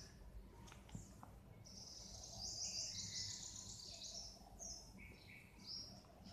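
Faint bird chirping in the background: a run of high chirps that builds a couple of seconds in, then a few scattered calls. A couple of faint clicks near the start.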